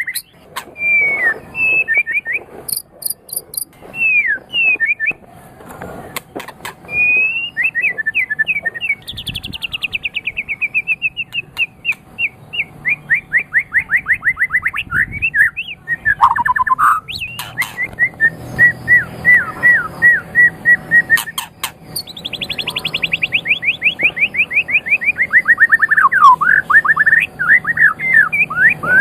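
White-rumped shama (murai batu) singing a long, varied song: rapid runs of quick sweeping notes and fast trills, phrase after phrase.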